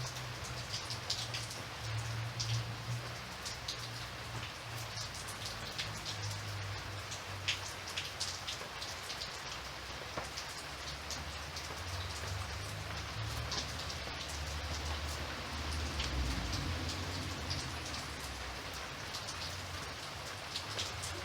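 Steady rain falling, with frequent single drops ticking sharply over the hiss, and a low rumble underneath.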